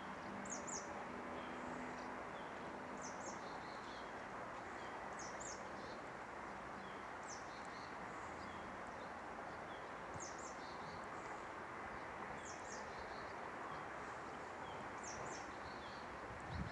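A songbird repeating a short, high double chirp every two to three seconds over a steady rushing outdoor background noise.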